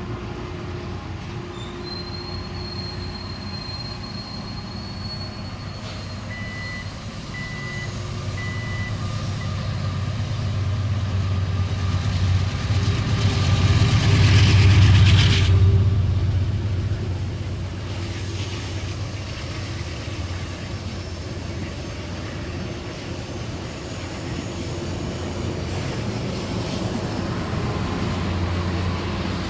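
Rail grinding train running on the track and passing close by. Its low rumble builds to a loud rushing peak about halfway through as it goes by, then eases off.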